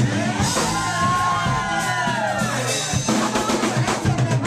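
Live funk-soul band music: a drum kit with bass drum and snare keeping a steady beat over a repeating bass line. From about half a second in, high notes slide up and down for around two seconds.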